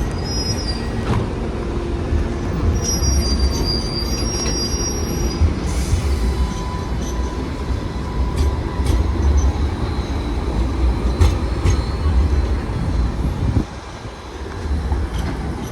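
Light rail tram running on its rails, with a steady low rumble and thin, high wheel squeals in the first few seconds. The rumble drops away sharply near the end.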